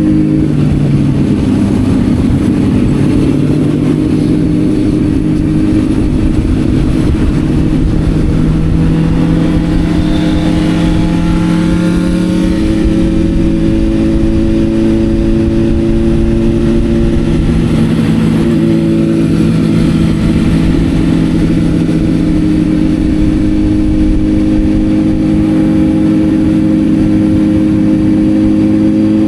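Motorcycle engine running at fairly steady revs under way, its pitch stepping slightly up and down, over loud low wind rush on the microphone. Fainter rising and falling engine tones come through about a third of the way in and again past the middle.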